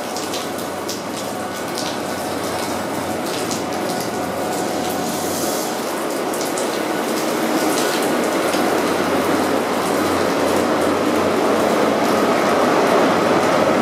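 First Great Western High Speed Train running past on wet rails: coaches rushing by with a hiss of spray and quick wheel clicks, getting louder toward the end as the rear Class 43 diesel power car comes near.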